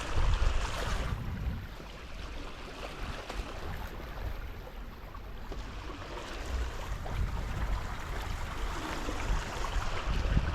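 Water rushing along a Tornado catamaran's hulls as it sails, a steady hiss, with wind buffeting the microphone in low rumbling gusts about a second in and again near the end.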